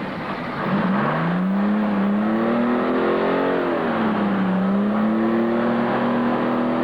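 A truck engine revving: its pitch climbs for about three seconds, drops back briefly, then rises again and holds.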